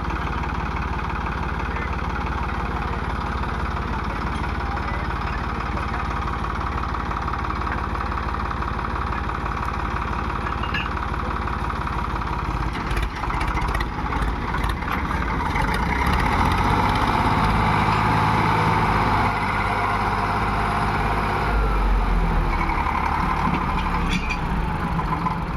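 Tractor diesel engine running steadily, growing louder about two-thirds of the way in.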